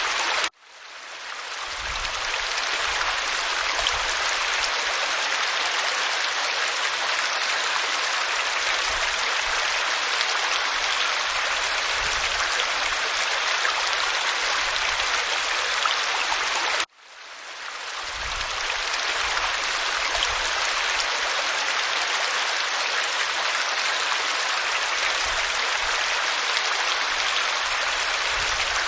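Waterfall pouring onto rock: a steady hiss of falling water. It cuts out abruptly twice, about half a second in and again near the middle, each time fading back up over a second or two.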